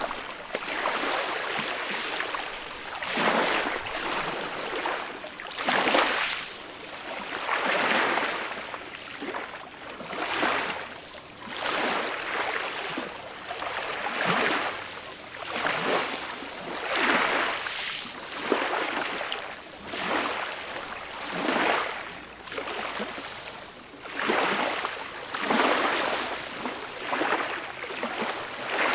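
Small, gentle sea waves breaking and washing up a beach. Each wave is a hiss that swells and fades, coming about every two to three seconds.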